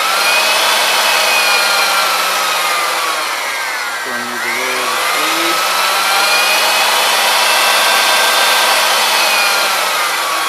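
Climax PM2000 portable milling machine's drive motor running at speed, a loud hissing whine. Its pitch sags about four seconds in and then climbs back up.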